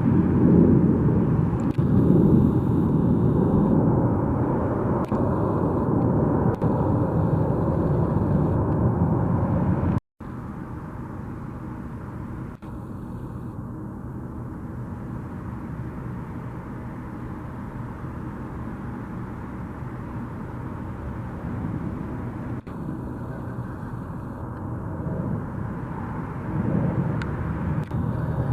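Jet airliner engine noise, a steady roar-like haze that is loud for the first ten seconds. It breaks off abruptly at a cut, resumes quieter, and grows louder again near the end.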